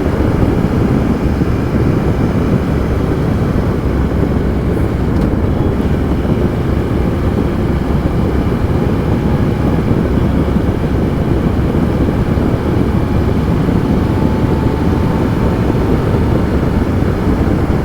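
Steady riding noise from a 2015 Triumph Tiger Explorer 1200's three-cylinder engine at speed, mixed with wind and road rush, holding an even level throughout.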